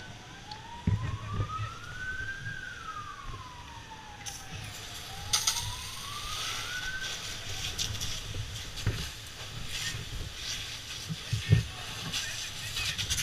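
Emergency vehicle siren in a slow wail, its pitch rising and falling about every two and a half seconds before fading out about halfway through. Several sharp thumps and a steady high hiss come in from about four seconds on.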